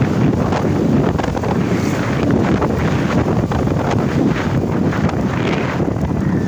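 Wind buffeting the microphone on a moving Crown HD Plus 70cc motorcycle: a steady, loud, low rushing noise with the bike's running noise mixed in beneath it.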